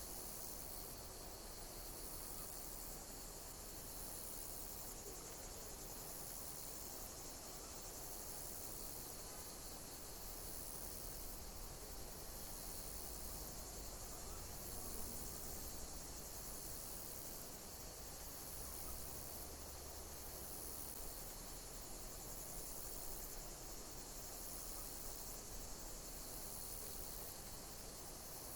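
Insects chirping in a steady high-pitched chorus, with a pulsing pattern that repeats about every second and a half.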